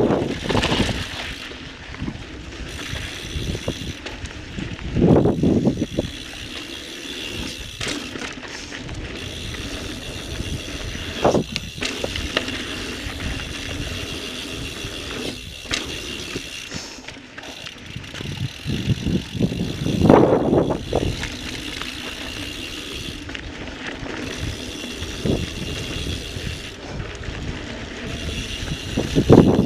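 Mountain bike coasting downhill: the DT Swiss rear hub's freehub buzzing steadily, over tyres rolling on dirt. Louder knocks and rattles from bumps come about five, eleven and twenty seconds in.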